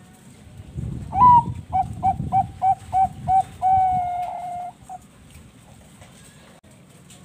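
Zebra dove (perkutut bangkok) song. About a second in comes a rising opening note, then a run of about six short coos at roughly three a second, ending in one long held coo.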